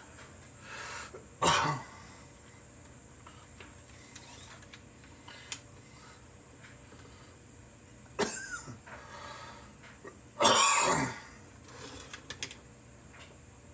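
A man coughing: a short cough about a second and a half in, then a longer rough cough or throat-clearing about eight seconds in, and the loudest cough near the end.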